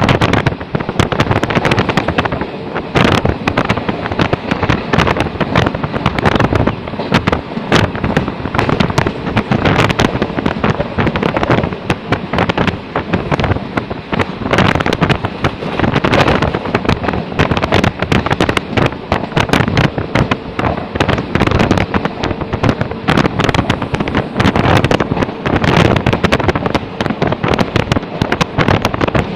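Moving train heard from an open carriage window: a loud, continuous crackle of wind buffeting the microphone, mixed with the rattle of the carriage.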